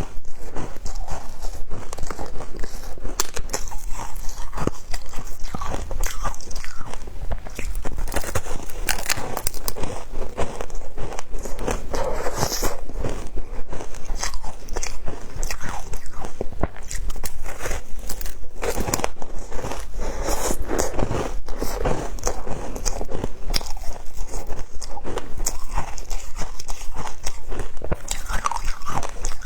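Frozen matcha ice being bitten and chewed: a continuous run of crunching and crackling bites that keeps on without a break.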